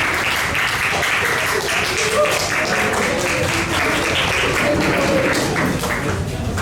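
Audience applauding after a song, many hands clapping at once with a few voices calling out in the crowd; the clapping thins out near the end.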